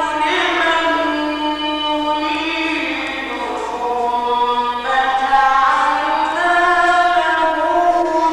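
A male reciter chanting the Quran in the ornate mujawwad tajweed style: one high voice holding long drawn-out melismatic notes that step to new pitches about two and five seconds in.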